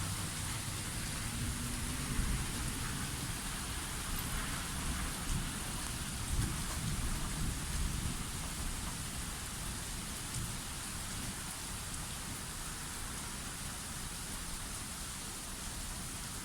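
Steady rain falling, an even hiss, with a low irregular rumble underneath that is strongest in the first half.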